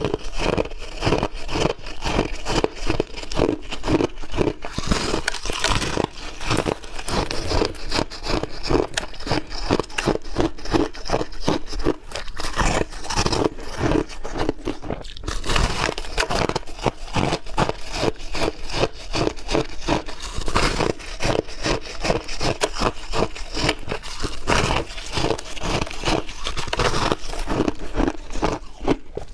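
Chunky ice being bitten and chewed close to the microphone: rapid, continuous crunching, several crunches a second throughout.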